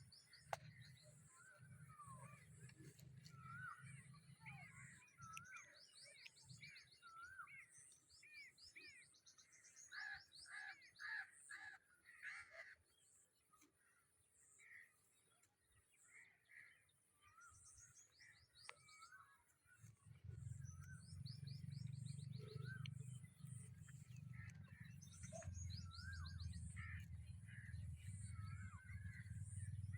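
Faint outdoor birdsong: several birds chirping and trilling, with a run of louder calls about a third of the way in. A low rumble comes in about two-thirds of the way through.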